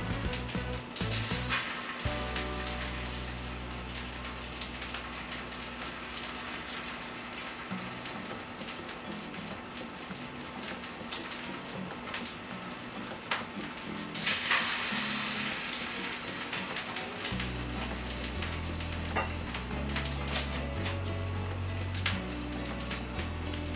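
Egg-battered zucchini slices sizzling and crackling in oil on a flat electric griddle, a steady spitting hiss that swells for a couple of seconds a little past midway. Soft background music plays underneath.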